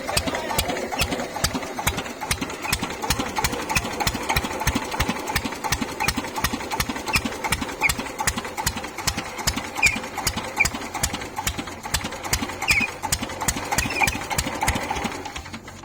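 Old Petter diesel engine running steadily, with a regular knocking beat from each firing stroke. The sound drops away slightly in the last second.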